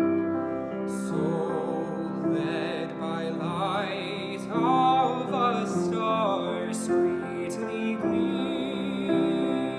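Slow, tender classical singing with vibrato over piano accompaniment; the voice's wavering line is most prominent in the middle of the passage.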